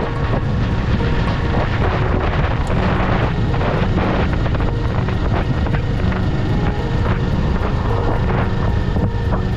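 Kawasaki Eliminator 500's parallel-twin engine running steadily while riding, with wind noise rushing over the microphone.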